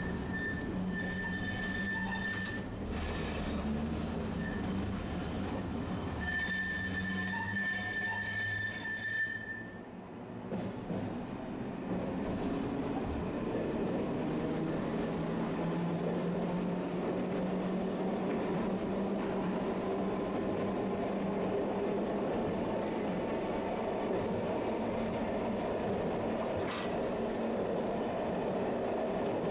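Tosaden streetcar's wheels squealing in two high, steady spells, typical of steel wheels grinding through a curve. A steady running rumble of the tram's wheels and motors follows and builds from about a third of the way in.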